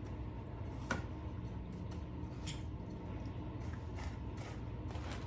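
Faint clicks and soft scrapes of a fork against a bowl while chicken tenders are dipped in egg and pressed into breadcrumbs, a few separate ticks over a steady low hum.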